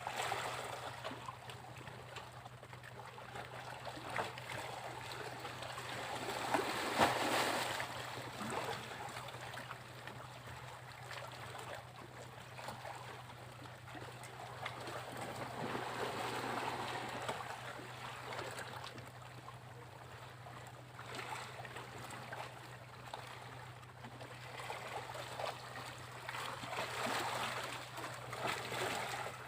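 Sea waves breaking and washing up a beach, three swells in turn, roughly ten seconds apart, the loudest crashing about seven seconds in. A steady low hum runs underneath.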